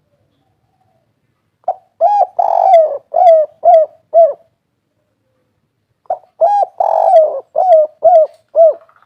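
Spotted dove cooing its 'kuk 3' song: two phrases about four seconds apart, each a short opening note followed by a run of about five arched coos.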